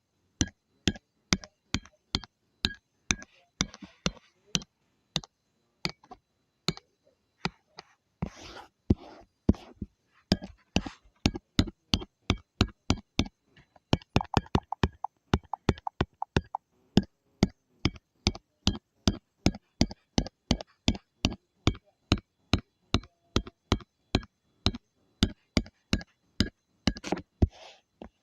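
Steady series of sharp taps, about two to three a second and quicker for a couple of seconds midway, with faint scratching between: a drawing tool dabbing and tapping on the drawing surface.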